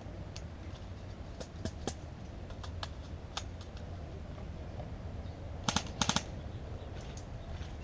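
Airsoft gun fire: scattered single sharp shots or clicks, then two short rapid bursts close together about six seconds in.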